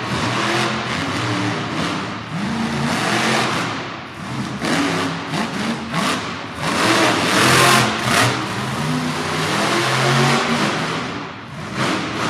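Monster truck engine revving hard and repeatedly, climbing and dropping in pitch, loudest about seven to eight seconds in.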